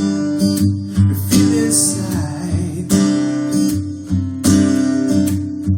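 Acoustic guitar strummed in a slow, steady rhythm, accompanying a ballad between sung lines, with firm strokes about every second and a half and lighter strums between them.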